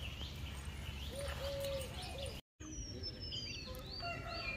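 Several birds calling in a garden: repeated short high chirps and lower drawn-out calls, over a steady low rumble. Just past halfway the sound drops out completely for a split second, then the chirping goes on.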